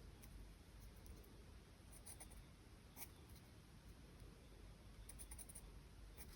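Faint scratching of charcoal on paper as the drawing is worked. There are short runs of quick light strokes about two seconds in and again around five seconds, and a single sharper tick near the middle, over a low steady room hum.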